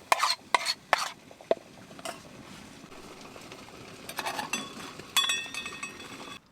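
Metal cooking utensils clinking and scraping against pans, with several sharp knocks in the first second and a half and one ringing metallic clink about five seconds in.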